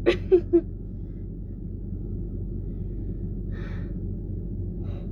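A woman's strained exhalations while doing slow sit-ups: a short voiced grunt right at the start, then two brief breaths out later on. A steady low hum runs underneath.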